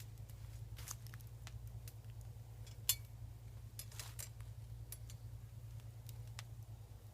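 Scattered light clicks and ticks, one sharper than the rest about three seconds in, over a steady low hum.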